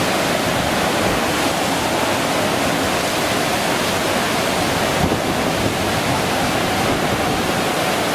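Steady, loud rushing of water in a storm, an even noise with no breaks.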